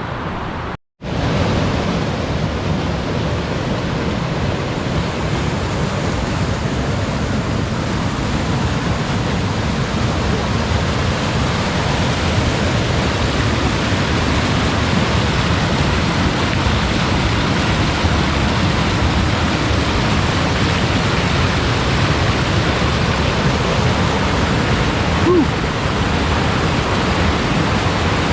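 Steady rush of a mountain waterfall, an even, full hiss of falling water that does not let up.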